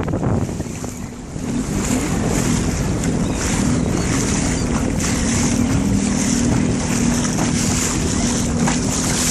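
Jet ski engine running steadily on the water, its note dipping briefly about a second in and then holding, with wind buffeting the microphone and water rushing.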